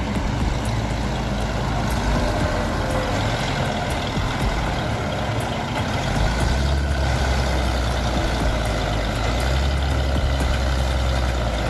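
A heavy truck's engine running with a steady deep drone that grows stronger about halfway through.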